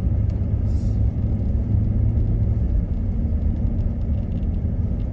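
Car driving along, a steady low rumble of engine and tyre noise heard from inside the cabin.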